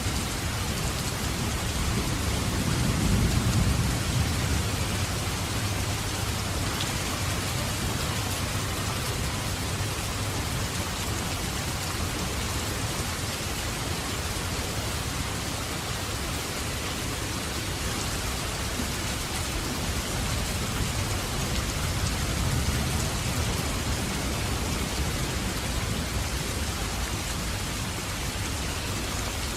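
Steady heavy rain falling, with a low rumble of thunder swelling about three seconds in and a softer roll of thunder past the middle.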